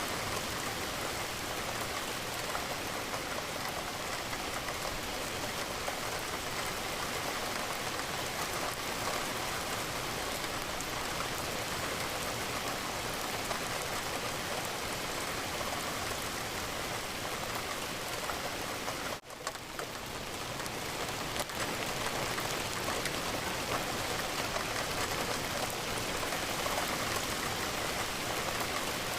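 Steady rain falling against a window, an even wash of drops with no let-up. It cuts out for an instant about two-thirds of the way through, then swells back to full.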